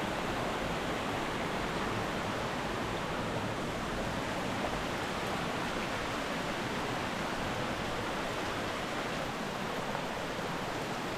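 Steady rush of a waterfall and creek water, an even hiss with no breaks.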